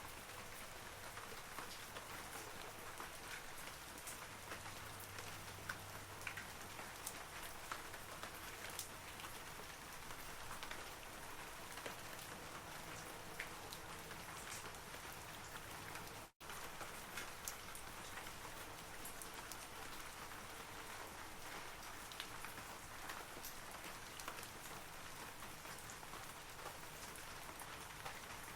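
Steady rain falling on forest trees: an even hiss with scattered sharp droplet ticks. The sound cuts out for an instant about halfway through.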